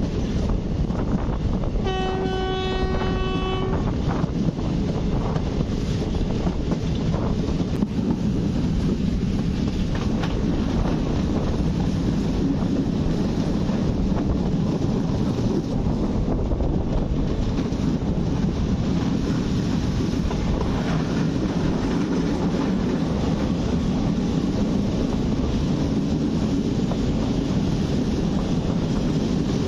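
Steady rumble of a moving passenger train running on the rails, with faint clicks from the track. About two seconds in, a train horn sounds once on a single steady note for about two seconds.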